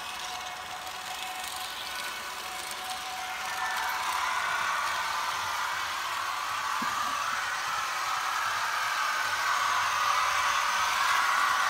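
Märklin H0 model train, a BR 146.5 electric locomotive pulling bi-level coaches, running on the layout track. It makes a steady rolling, whirring noise that grows louder from about four seconds in as the train comes closer.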